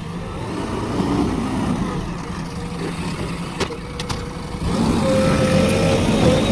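JCB backhoe loader's diesel engine running, louder from about five seconds in, when a steady whine joins it.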